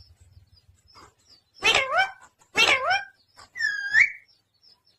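Pet talking parrot calling three times: two short harsh calls, then a rising whistle near the end.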